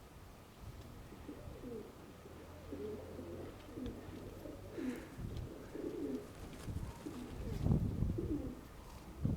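Domestic pigeons cooing, a string of short low coos one after another, with wind rumbling on the microphone.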